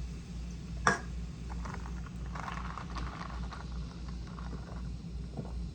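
Close-up eating sounds: a person chewing food, with small wet mouth clicks and one sharp click about a second in, over a steady low hum.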